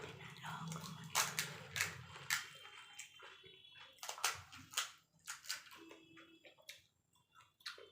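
Golgappa being eaten fast: irregular crunches of crisp puri shells and wet slurping of tamarind water, with short pauses between bites.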